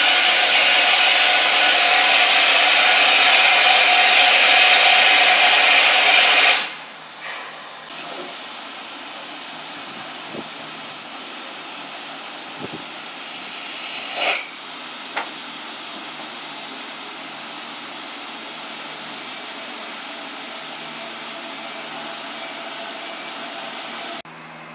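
Steam locomotive letting off a loud, steady hiss of steam, which dies away after about six seconds, leaving quieter steady background noise with a few faint clicks.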